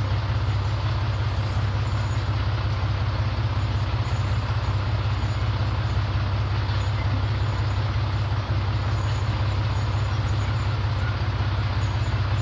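Komatsu D31PX bulldozer's diesel engine running steadily, a deep, even drone that holds without change.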